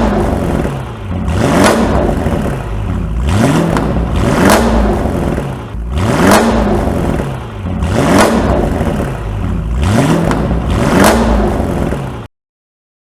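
Tuned Audi RS6's 4.0-litre twin-turbo V8 being revved over and over, its pitch rising and falling about every one and a half to two seconds. The sound cuts off suddenly near the end.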